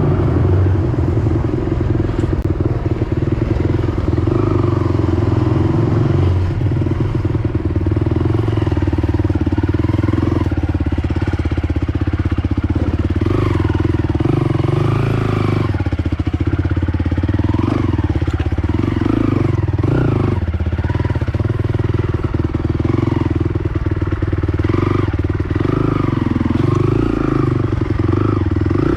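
Honda TRX450R ATV's single-cylinder four-stroke engine running under way, its pitch rising and falling repeatedly as the throttle is worked.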